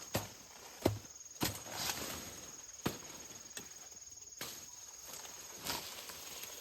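Footsteps on a rural trail, an uneven series of sharp steps about every half second to second and a half, over a steady high-pitched insect drone.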